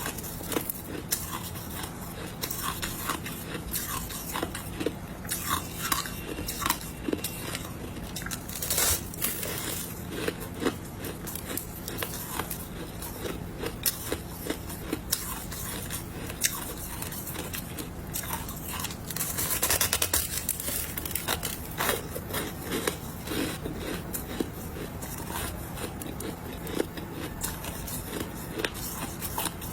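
Close-up crunching of ice being bitten and chewed, a run of sharp crunches with a denser burst of grinding about two-thirds of the way through.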